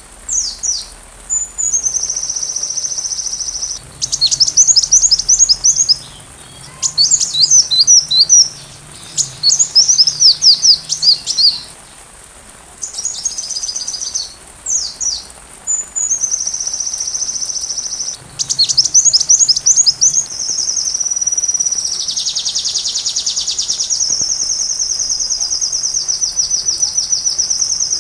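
Sunbird song: bursts of rapid, sharp, high sweeping notes alternate with long, even, high trills. The longest trill, running about eight seconds, fills the last part.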